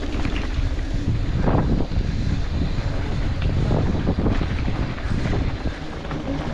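Wind buffeting the microphone during a downhill run on a ski slope, mixed with the hiss and scrape of the rider sliding over snow, swelling unevenly every second or two.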